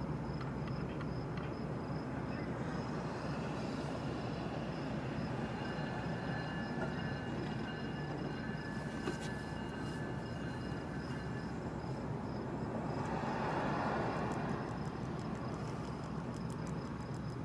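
CN freight train rolling by, a steady rumble of its wheels on the rails, with faint high steady tones for several seconds in the middle and a swell near the end.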